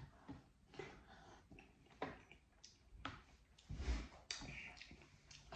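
Close-up eating sounds of a mouthful of rice and lentils eaten by hand: soft wet clicks and smacks of chewing, with fingers working the rice on the plate. A low thump comes about four seconds in.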